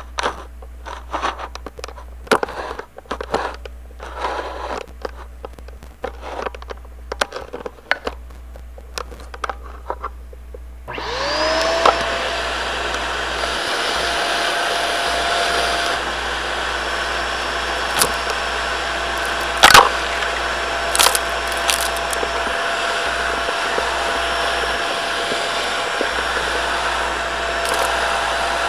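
A string of light clicks and crinkling handling noises, then a Shark vacuum cleaner switched on about eleven seconds in. Its motor whine rises quickly to a steady pitch and runs on, with a few sharp clicks over it.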